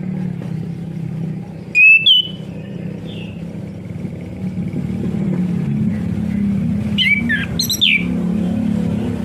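Orange-headed thrush giving loud, sharp calls: a short burst about two seconds in and a quicker run of several notes near the end, over a steady low engine-like hum.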